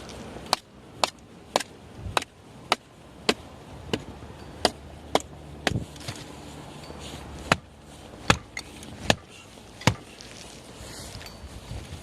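Firewood being chopped by hand: a string of about fifteen sharp chopping strikes, roughly two a second at first and more spaced out in the second half.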